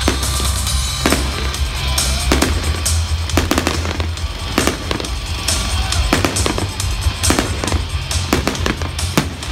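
Fireworks display going off: a rapid, irregular run of sharp bangs and crackles, several a second, with no let-up.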